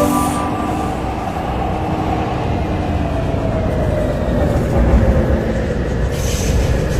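MTR Tseung Kwan O line C-Train running between stations, heard from inside the car: a steady rumble of wheels on track, with a faint falling tone a few seconds in.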